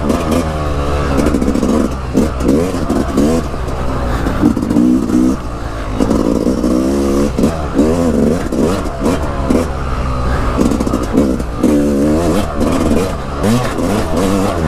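Dirt bike engine revving up and down over and over as the throttle is opened and closed along a rough trail.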